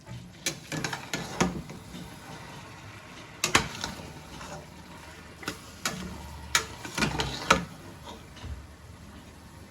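Kitchen clatter: a series of sharp, irregular clinks and knocks of utensils against dishes or pots, with the loudest knocks about three and a half seconds in and again around seven seconds in.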